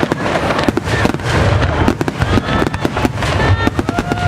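Fireworks display: aerial shells bursting in quick succession, with dense crackling over a continuous low rumble of booms.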